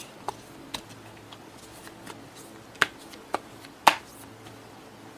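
Tarot cards being handled on a table: a handful of short, sharp clicks and taps, the loudest near four seconds in, over a faint room hum.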